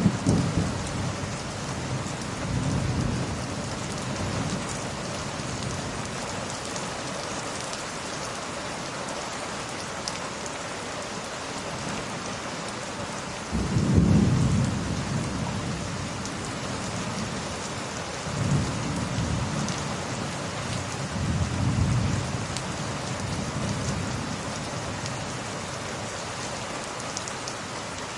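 Steady rain with rolling thunder. Low rumbles swell and fade several times, and a louder clap starts suddenly about halfway through.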